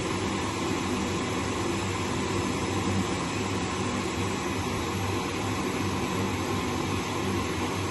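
Zanussi FLS-822CH washing machine running with a steady, even mechanical noise and a faint hum, with no breaks or pauses.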